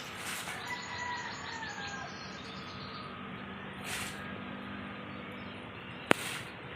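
Birds chirping in short calls over steady outdoor background noise, with a quick run of high, rapid chirps in the first two seconds and a single sharp click about six seconds in.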